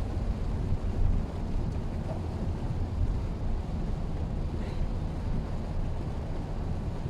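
Mitsubishi Xpander driving: a steady low rumble of engine and road noise.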